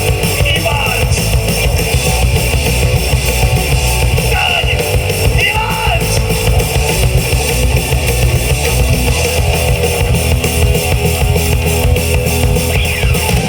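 A live rock band playing a loud, steady passage on electric guitars, bass guitar and drum kit.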